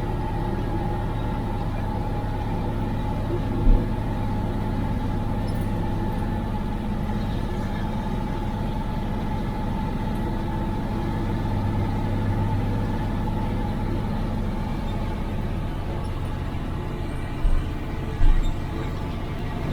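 IFA L60 truck's diesel engine running steadily, heard from inside the cab. A few short knocks sound over it, one about four seconds in and two near the end.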